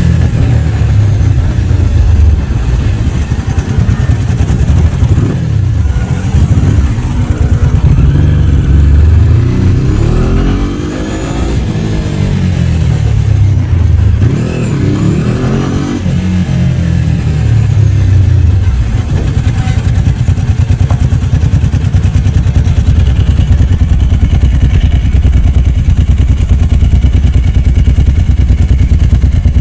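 Ducati 749's L-twin engine running on the move. Its pitch rises and falls several times through the first half, as it revs and eases off, then it runs more steadily near the end.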